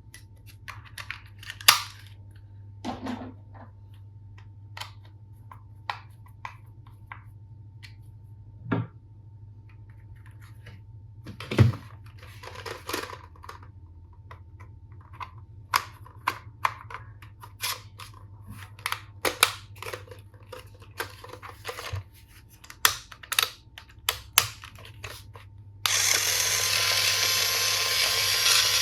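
Plastic toy tool pieces handled, with scattered clicks and taps, then near the end a toy electric screwdriver's small motor switches on and runs with a steady buzz.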